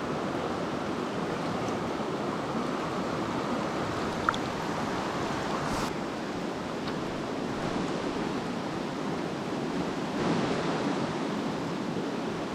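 Mountain stream water rushing steadily over rocks, with a brief small click about four seconds in.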